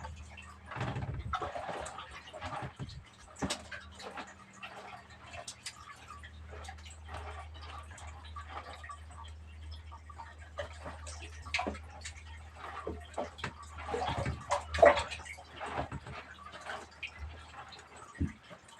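Water splashing and dripping in irregular bursts, loudest about fifteen seconds in, over a low steady hum.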